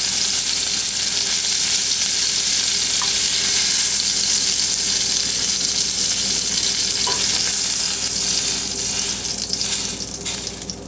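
Lingcod cheeks sizzling in hot bacon fat in a stainless steel skillet: a steady frying hiss that dies down near the end.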